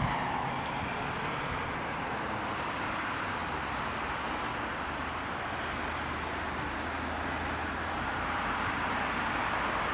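Freight train rolling past a level crossing, with a steady rush of wheel and rail noise over a low hum.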